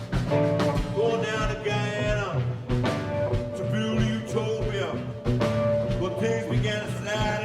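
Blues-rock band playing live: electric guitar, bass and drum kit with a steady beat, and a voice singing over them in phrases.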